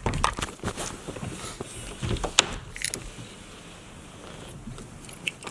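Light clicking and rattling: a run of sharp clicks in the first three seconds, then quieter, with a few more clicks near the end.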